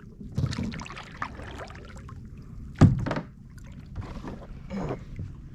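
Knocks and handling noises on a kayak, with one sharp knock a little under three seconds in.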